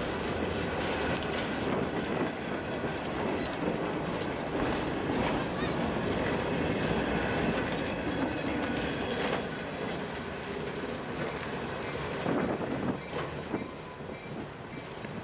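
Loaded covered hopper cars of a freight train rolling past on street-running track, wheels clicking over rail joints with a thin wheel squeal now and then. The sound fades near the end as the last car moves away.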